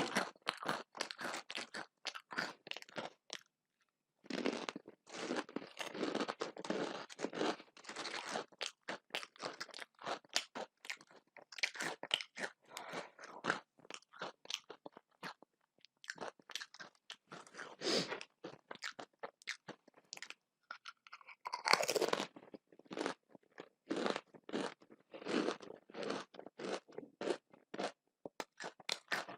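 A person chewing and crunching food close to the microphone: quick, irregular crunches and chewing noises, with a short pause about four seconds in and a louder crunch a little past twenty seconds.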